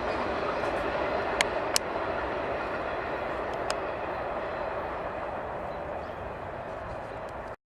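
Freight cars of a mixed freight train rolling past, a steady rumble of steel wheels on rail with a few sharp clicks, slowly fading and then cutting off suddenly near the end.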